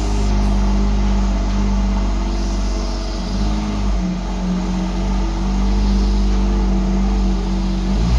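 Porsche Cayman GT4's 3.8-litre flat-six idling steadily, its note dipping slightly about three and a half seconds in.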